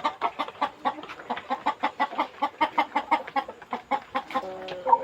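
A flock of Indonesian village chickens (ayam kampung) clucking busily in quick, overlapping clucks, with one longer drawn-out call near the end.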